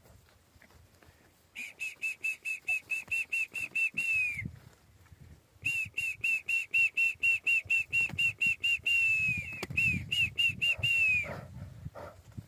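A bird calling: a rapid series of short, high whistled notes, about seven a second, in two runs, each run ending with a note that slides downward.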